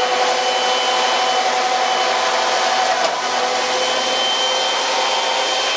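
A high-speed electric motor running steadily, a constant whine over rushing air, starting abruptly.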